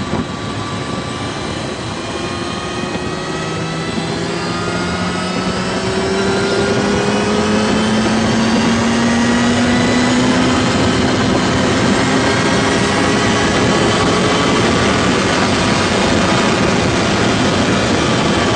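Loud, steady engine noise whose tones slowly rise in pitch over the first half, growing louder, then holding steady.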